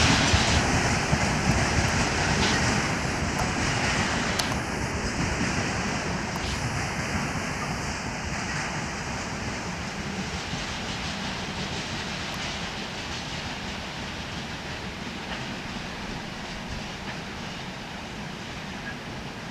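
Freight train rolling along the rails and fading as it moves away. The rumble and wheel noise of the wagons dies down steadily.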